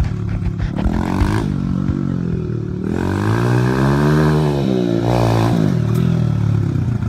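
Honda XR100R dirt bike's single-cylinder four-stroke engine revving up and back down several times, with one long rise and fall in pitch in the middle.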